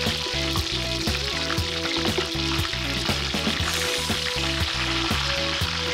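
Iru (fermented locust beans) sizzling and frying in hot palm oil as it is stirred with a wooden spoon in an aluminium pot, over background music.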